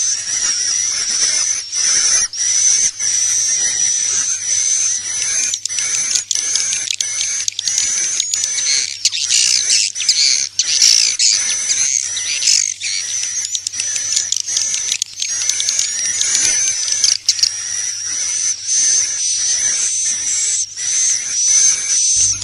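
Recorded swiftlet lure sound, a 'suara inap' roosting call track for a swiftlet house: a dense, continuous high twittering of many swiftlets, with rapid dry clicks running through it.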